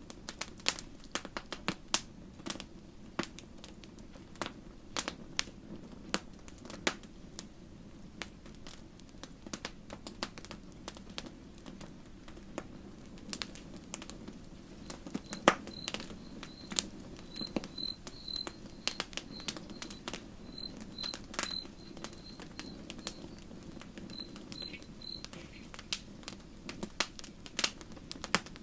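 Campfire crackling, with frequent sharp pops of burning wood over a low, steady rumble of the flames. From about halfway, a faint high chirp repeats two or three times a second for about ten seconds.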